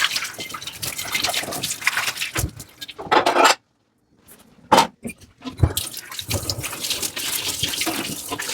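Tap water running and splashing over dishes in a sink during hand washing, with scrubbing and knocks of dishware. The sound drops out completely for about half a second midway, then a couple of knocks come and the water picks up again.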